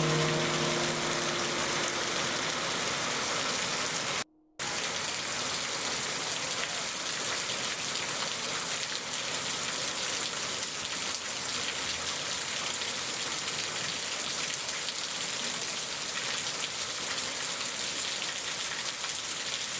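Steady rain falling and splashing on hard surfaces, a continuous even hiss. It cuts out to silence for a split second about four seconds in.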